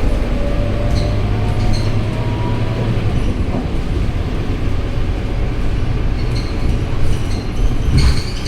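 Scania K230UB city bus's five-cylinder diesel engine running on the move, with a slowly rising whine in the first few seconds as it gathers speed. There are a few light rattles and clicks, the loudest near the end.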